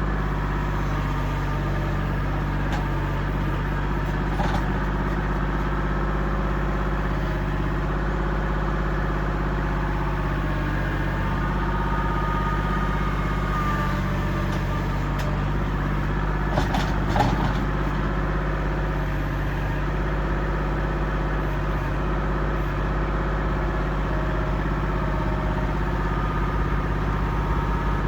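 Kubota L2501 compact tractor's three-cylinder diesel engine running at a steady speed, with a few short clanks about two-thirds of the way through.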